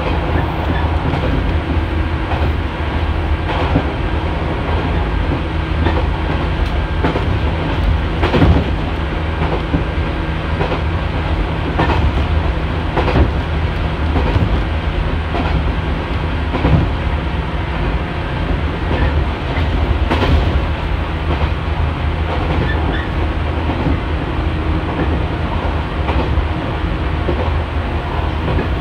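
JNR 115 series electric train running at speed, heard from on board: a steady low motor and running hum, with the wheels clicking over rail joints every second or few at uneven intervals.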